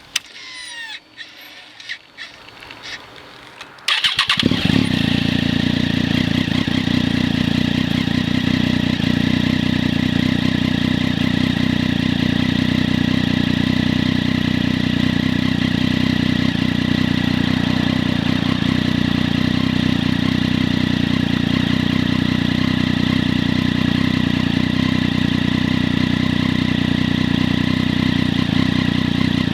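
2006 Triumph Daytona 675's three-cylinder engine, breathing through a Bodis Q1 titanium exhaust with its dB-killers removed, is started about four seconds in after a few faint clicks, then idles loud and steady.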